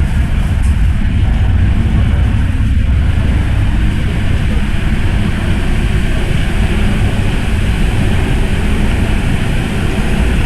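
MTR M-Train electric multiple unit running through an underground tunnel: a steady, loud rumble of wheels and motors, strongest in the low end, with no let-up.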